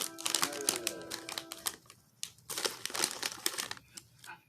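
Plastic snack bag crinkling in rapid bursts as it is opened and handled.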